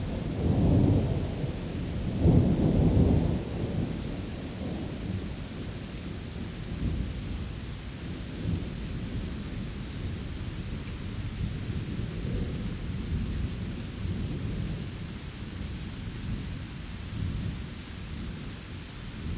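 Rain ambience with rolling thunder: two low rumbles swell up in the first few seconds, then a steady low rumble continues under an even hiss of rain.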